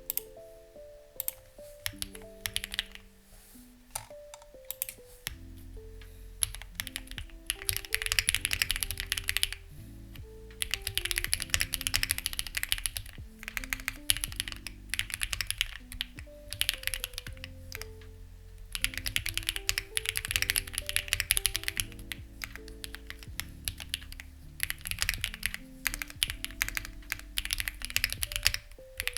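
Typing on a Lucky65 v2 mechanical keyboard with stock, unlubricated HMX Ziwei switches and CMK-style keycaps: a steady run of key clicks that comes in fast bursts and slower stretches. Background music with a bass line plays under the typing.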